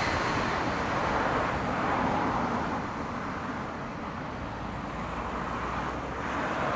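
JR E531-series electric train receding after passing, its running noise fading into a steady hiss, which swells slightly again near the end.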